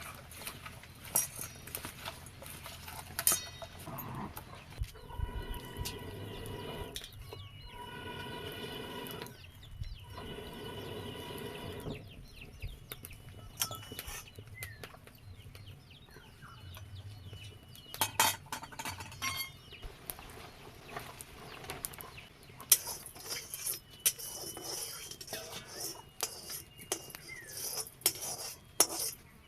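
Chickens calling, with three drawn-out calls in the middle stretch and scattered sharp clinks of utensils.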